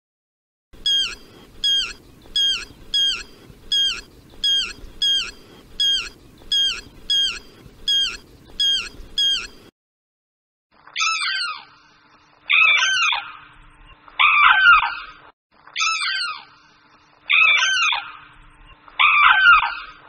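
Yellow-wattled lapwing calling: a steady run of short, sharp notes that fall in pitch, about one and a half a second. About ten seconds in it gives way to a sarus crane calling: six loud, drawn-out calls that fall in pitch, about one every second and a half.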